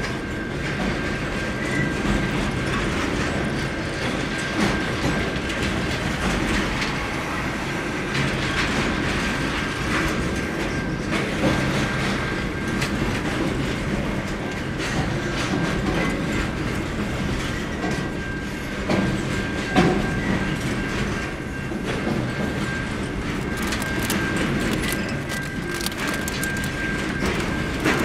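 Double-stacked container wagons of a long freight train rolling past close by: a steady rumble of wheels on rail, with clicks and knocks from the wheelsets and a thin, steady high-pitched squeal.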